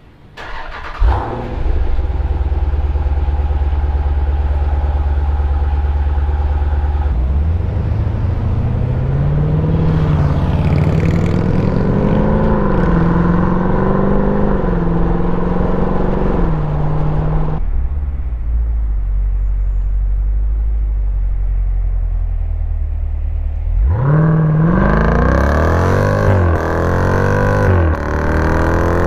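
2017 Jeep Grand Cherokee SRT's 6.4-litre HEMI V8, exhaust opened up by a mid-muffler delete and 3-inch X-pipe, starting about a second in and idling deep and steady. Its revs then rise and waver for about ten seconds, drop back to idle, and climb steeply again near the end.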